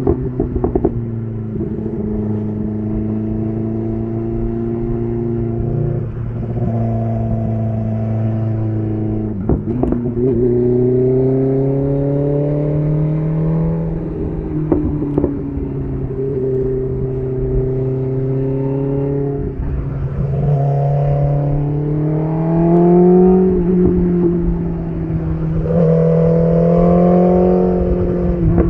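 BMW S1000RR inline-four sport bike engine through an SC Project titanium exhaust, riding at speed. The engine pitch holds, drops at shifts and climbs again under throttle several times, with brief exhaust crackles about a second in and again near ten seconds.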